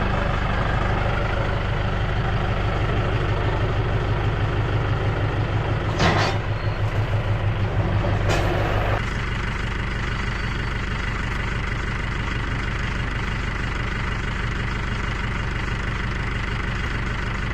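Tractor engine running steadily. About six seconds in its sound starts to pulse, and about nine seconds in it settles to a quieter, even run.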